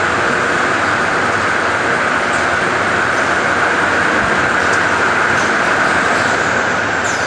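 Toilet paper roll machinery running steadily: a loud, even mechanical noise with a constant high hiss and a few faint clicks.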